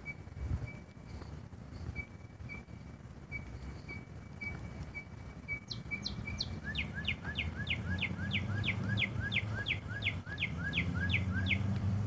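A bird singing: short high chirps about two a second, then from about halfway a faster run of quick downward-sweeping notes, about four a second, which stops shortly before the end. A low rumble runs underneath.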